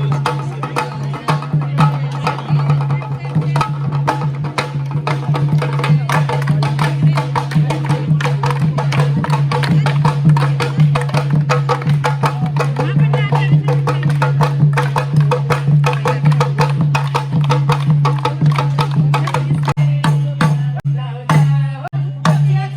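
Live folk music: fast, dense hand-drum beats and wooden clacks over a steady low hum.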